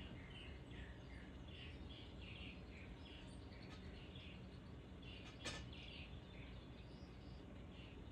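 Faint songbird chirps and twittering, many short notes in no steady rhythm, over a steady low background rumble. A single sharp click about five and a half seconds in.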